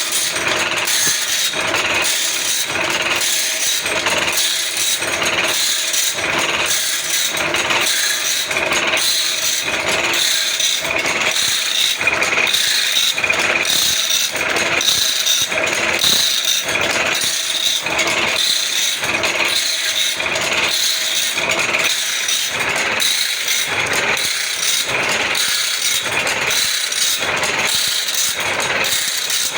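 Automatic band saw blade sharpening machine running, its grinding wheel dressing the blade tooth by tooth in an even, repeating rhythm of grinding strokes over the steady motor.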